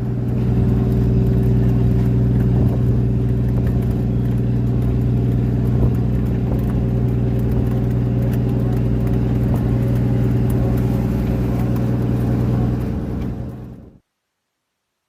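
Steady, low drone of a fishing boat's engine running at constant speed, fading out about a second before the end into silence.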